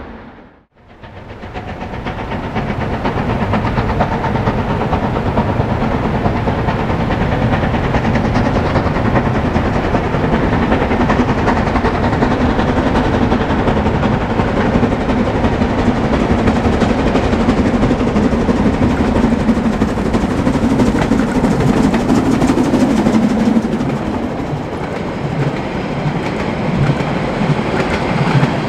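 Harzquerbahn metre-gauge train running, a steady rumble with wheels clattering on the track. The sound comes in after a brief cut about a second in, and a low hum in it fades as the level eases a little near the end.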